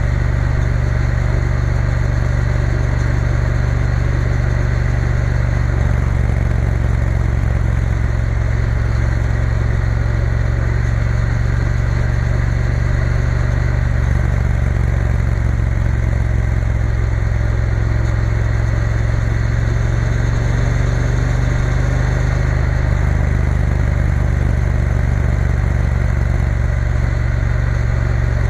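Triumph Bonneville T120 motorcycle engine running at a steady cruise under way, with an even rush of wind and road noise over it.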